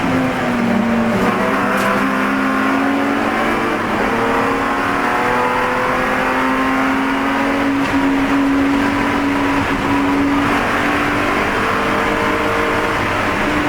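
Spec E46 BMW race car's engine running hard on track. The pitch drops briefly about a second in, then climbs steadily through a long pull in gear, and eases again briefly about ten seconds in.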